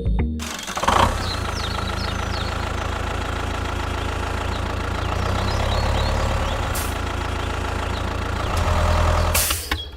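An engine idling steadily, starting about a quarter second in and fading out just before the end.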